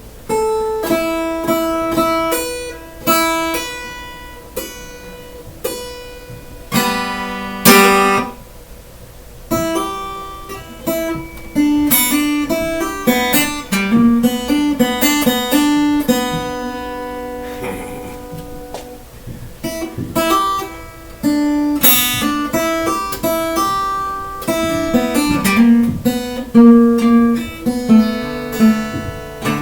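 Solo acoustic guitar, picked notes and strummed chords that ring out and fade between strokes, with no singing.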